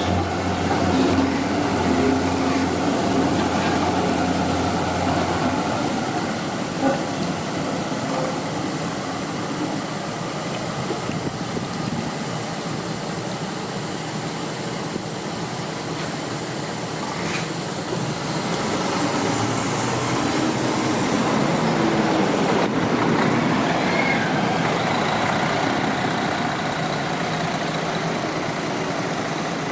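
Zurich tram at its terminus: a steady electrical hum for the first few seconds, then an even rolling rumble that swells about two-thirds of the way in, with a brief hiss.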